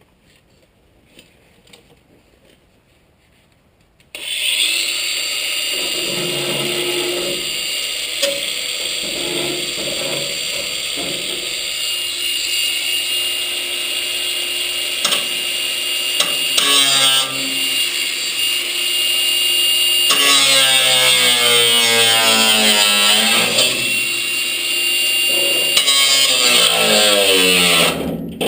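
A handheld power tool starts about four seconds in and runs with a steady high whine. Its pitch dips and recovers as it takes load, and it stops just before the end.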